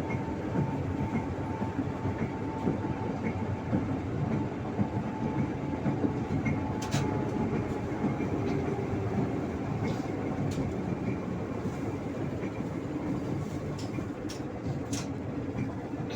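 Tram running along the track between stops: a steady rumble of wheels on rails with a few sharp clacks as the wheels pass over joints.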